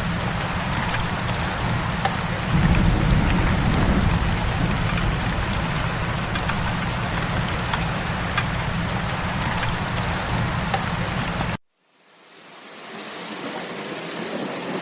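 Heavy rain falling steadily, with a dense patter of drops over a low rumble. About eleven and a half seconds in it cuts out suddenly and then fades back in.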